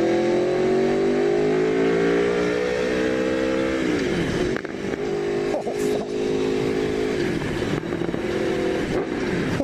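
Aprilia Tuono V4 1100RR's V4 engine pulling hard under throttle, its note climbing steadily for about four seconds. The pitch then falls sharply and holds steady, dips again around seven seconds in, and settles once more.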